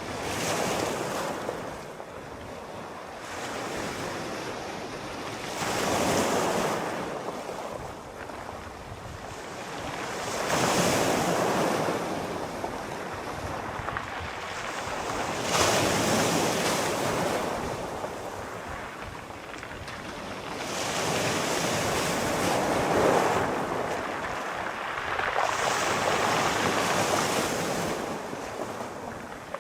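Sea waves breaking and washing up the shore in slow swells, one surge about every five seconds, each rising to a hiss and fading away.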